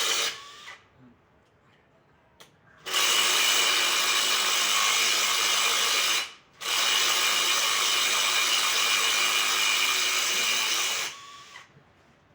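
A power tool running in three bursts with short stops between: a brief one at the start, then two long runs of about three and a half and four and a half seconds.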